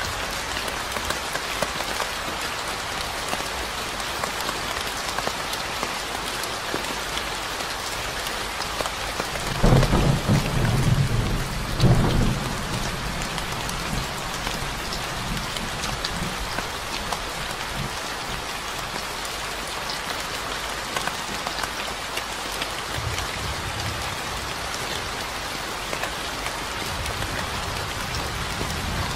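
Steady rain falling, with thunder rumbling low about ten seconds in and a second roll about two seconds later.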